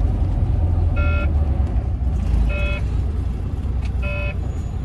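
A truck's in-cab warning buzzer beeping three times, short evenly spaced beeps about a second and a half apart, over the steady low running of the diesel engine. The warning sounds while the engine is losing its coolant and power.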